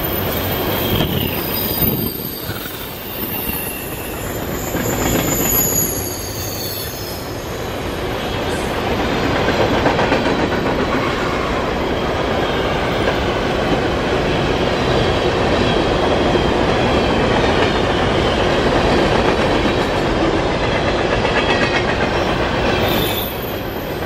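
A long CN freight train rolling past with a steady rumble and wheel clatter. High-pitched, slightly falling wheel squeals ring out over the first several seconds, with fainter ones near the end.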